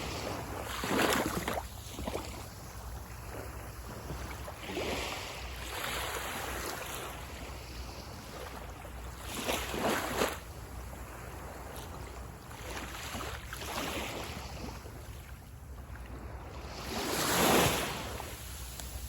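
Sea waves breaking and washing up on a beach, surging every few seconds, with the biggest wash near the end.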